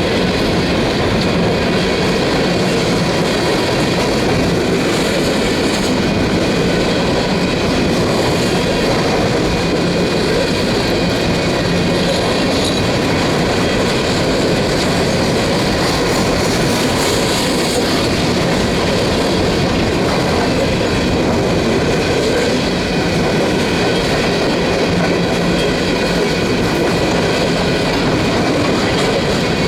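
Empty coal cars of a Union Pacific freight train rolling past: a loud, steady rumble and rattle of steel wheels on the rails, with faint thin high tones from the wheels running through it.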